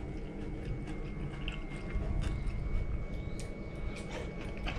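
A person chewing a mouthful of fresh tomato and cucumber with the mouth closed, with scattered small clicks. A faint steady high tone and a low hum run underneath.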